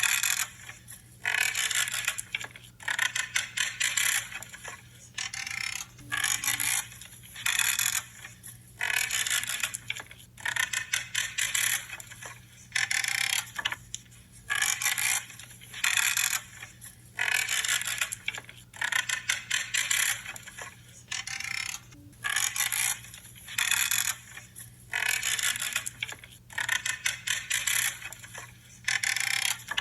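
Pruning shears cutting through branches over and over, about one crunchy, creaking snip a second.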